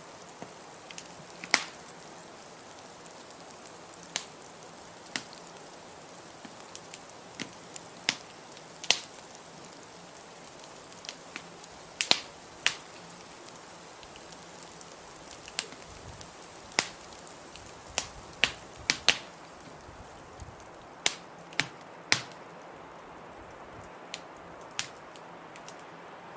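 Wood fire crackling, with irregular sharp pops and snaps, some loud, over a steady hiss of blizzard wind.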